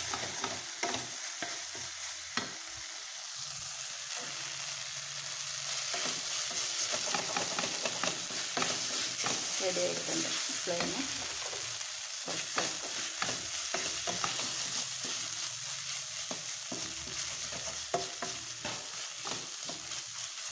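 Okra and egg stir-fry sizzling in a stainless-steel pan, cooking down until dry, with a steady frying hiss. A spatula stirs and scrapes it, making irregular scrapes and clicks against the pan.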